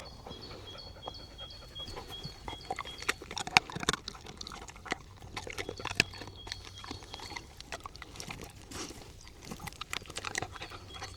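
A dog snuffling and chewing, with small scattered crunches. Behind it a bird repeats a short high note two to three times a second; the note breaks off partway through and returns near the end.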